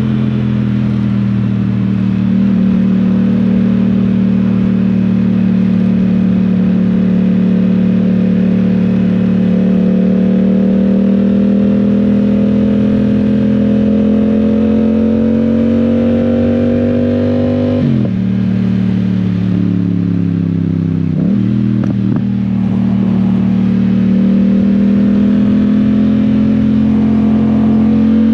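Yamaha Tracer 700's 689 cc parallel-twin engine running under way, its revs slowly climbing. About 18 s in the revs drop sharply, dip again a few seconds later, then build back up.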